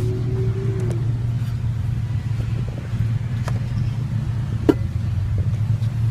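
A motor vehicle's engine running with a steady low rumble. A faint held tone fades out about a second in, and there are a few light clicks and one sharp knock a little over halfway through.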